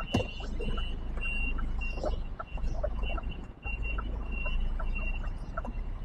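Lorry reversing alarm beeping, a steady repeating tone about twice a second, over the low rumble of the truck's diesel engine as the HGV backs onto a loading bay.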